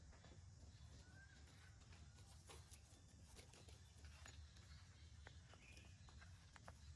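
Near silence: a faint low outdoor rumble with scattered soft clicks and rustles, and a couple of faint short chirps.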